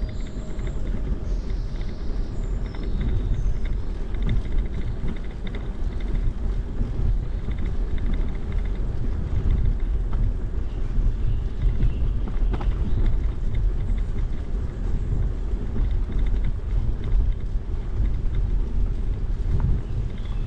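Wind buffeting the microphone of a camera on a moving bicycle: a steady, low, fluctuating rumble.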